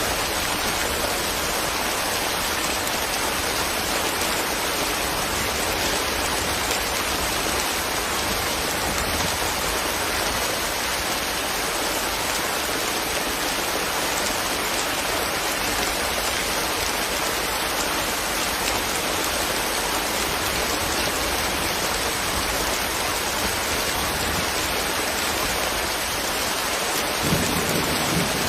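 Steady rain falling, an even unbroken hiss. Near the end a low rumble of thunder starts to build.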